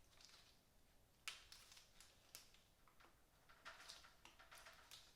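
Near silence, with a few faint clicks and taps of small engine parts being handled, a small cluster of them near the end.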